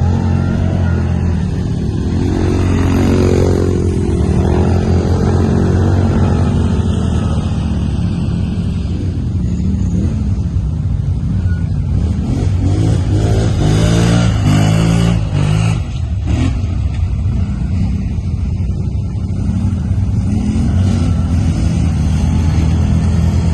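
Quad bike (ATV) engines running under throttle, their pitch rising and falling repeatedly as they are revved up and eased off.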